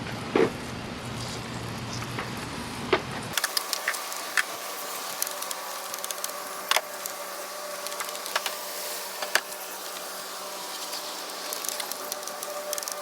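Pressure-washer spray on an engine bay: a steady hiss of water with scattered sharp ticks and knocks. A little over three seconds in, the sound changes abruptly: the low rumble drops away and a steady hum comes in under the spray.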